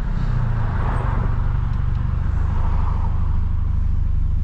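Tuned BMW F30 328i's turbocharged four-cylinder engine running steadily, a low, even drone with no exhaust pops.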